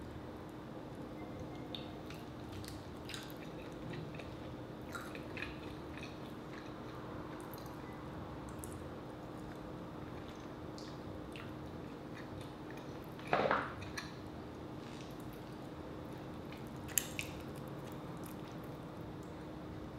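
Close-up eating sounds: chewing rotisserie chicken, with scattered wet mouth clicks and smacks. One louder wet mouth sound comes about two-thirds of the way through, and a faint steady hum lies underneath.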